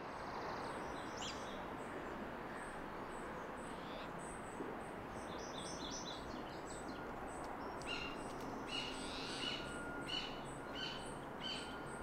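Outdoor garden ambience: small birds chirping again and again over a steady background hiss and rumble, the chirps coming closer together near the end.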